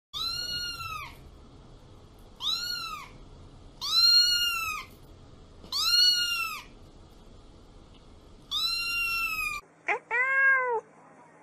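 A cat meowing: five high-pitched meows, each rising and falling in pitch. After a break near the end comes one lower meow.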